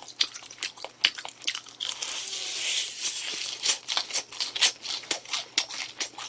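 Close-up crunchy chewing of crisp fried chicken: a quick run of short crackles and clicks, with a softer hissy crunch about two seconds in.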